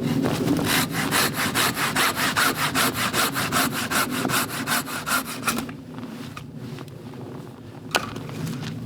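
Hand saw cutting through wood in quick, even strokes, about five a second, stopping about five and a half seconds in. Near the end there is a single sharp click.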